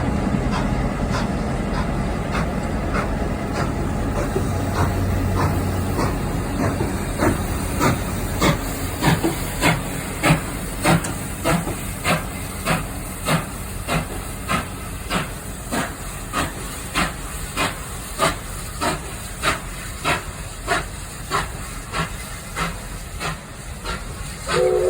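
Steam locomotive working a train, its exhaust chuffing in steady, even beats about one and a half a second with a steam hiss. The chuffs come up out of a rumble a few seconds in, are loudest a third of the way through, then slowly fade as the engine draws away.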